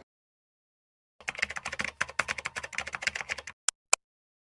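Rapid typing clicks, keys struck in a quick run starting about a second in and lasting a little over two seconds, then two separate clicks, the last the loudest.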